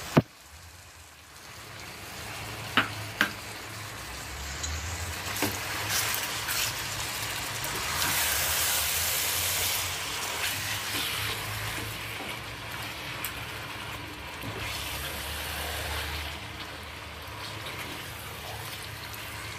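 Chicken masala frying in a heavy pan as curd is stirred in with a silicone spatula: a steady sizzle, loudest about halfway through, with a few light clicks of the spatula against the pan and a sharp click at the very start. The sizzle is of the masala cooking in oil that has begun to separate.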